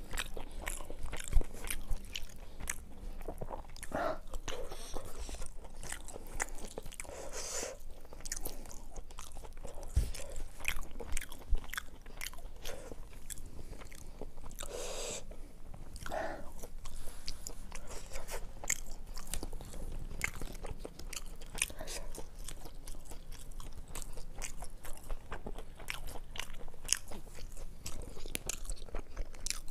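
Close-up chewing and crunching of fried fish and rice eaten by hand, with many small clicks and a few louder mouth sounds.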